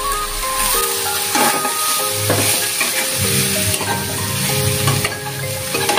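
Grated carrot and onion sizzling as they fry in a pan, stirred with a metal spatula that scrapes across the pan several times.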